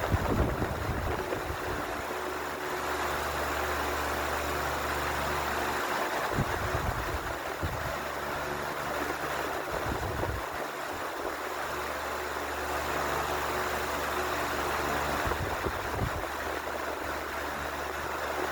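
Ventisol New 60 cm wall fan running: a steady rush of air over a low motor hum, with brief low rumbling bursts now and then.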